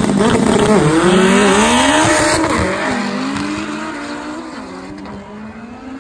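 Two turbocharged Honda Civic EG hatchbacks launching side by side in a drag race. Their engines rev up through the gears, the pitch dropping at each shift, and the sound fades as the cars pull away down the strip.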